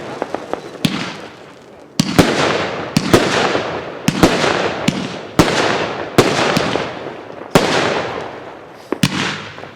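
A consumer firework cake firing shot after shot, about one sharp bang a second, each followed by a fading hiss and crackle from the bursting stars.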